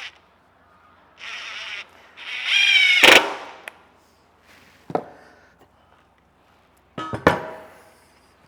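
Power drill running in two short bursts, the second rising in pitch and ending in a sharp knock, followed by a single knock and then two ringing metallic clanks near the end.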